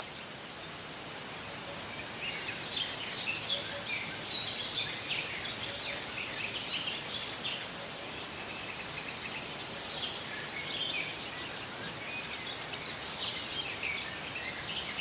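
Small birds chirping and twittering in quick irregular bursts over a steady background hiss of outdoor ambience, the chirps starting about two seconds in.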